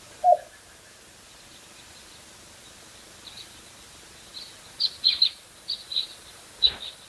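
Small birds chirping: an uneven string of short, high chirps that begins about three seconds in and is thickest near the end, over a steady outdoor hiss. One short, lower-pitched call-like sound comes right at the start.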